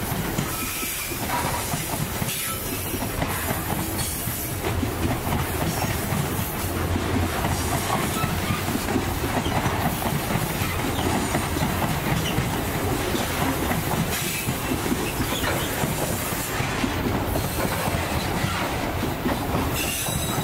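Freight train's wagons rolling along the rails: a steady rumble and clatter of the wheels.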